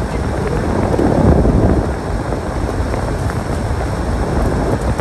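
Storm wind rushing and buffeting the microphone, a steady low rumble that swells about a second in.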